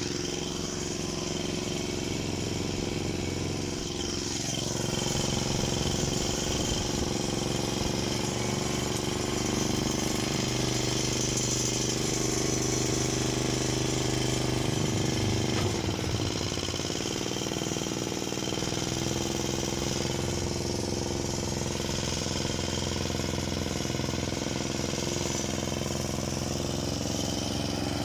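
Lada 2114 car engine running steadily while driving with a load of firewood, its engine note dropping briefly about 16 seconds in.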